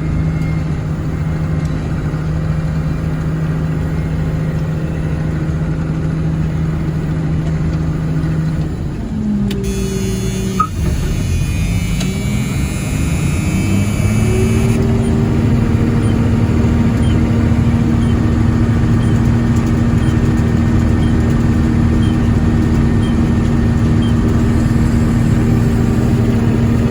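Combine harvester engine running steadily; about nine seconds in the sound changes abruptly, the pitch dips and then climbs to settle higher, with one short click around eleven seconds.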